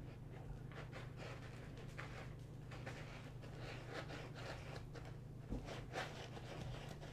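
Kittens scuffling and tumbling together: irregular scratching and rustling with two soft thumps about five and a half and six seconds in, over a steady low hum.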